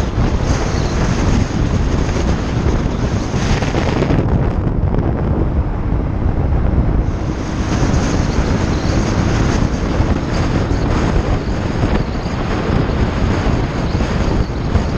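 Heavy wind buffeting on the microphone of a motorcycle rider's camera while riding, a steady rushing noise strongest in the lows. The high hiss thins for a few seconds near the middle.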